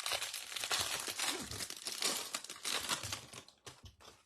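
A plastic trading-card wrapper crinkling and tearing as it is pulled off a stack of cards. The crackling is dense and continuous, then thins to a few separate crinkles and stops shortly before the end.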